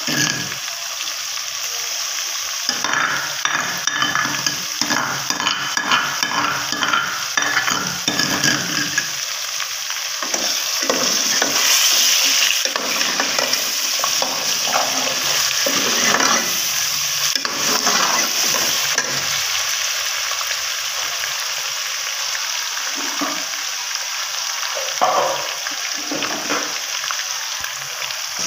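Chicken pieces sizzling in hot oil in a metal pot, with a steel ladle stirring them and scraping and clinking against the pot.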